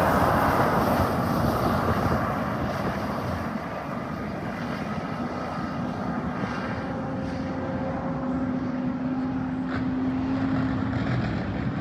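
Gas-turbine jet engines of a race boat running, a loud rushing roar that fades over the first few seconds and settles into a steadier roar with a faint whine that slowly rises in pitch.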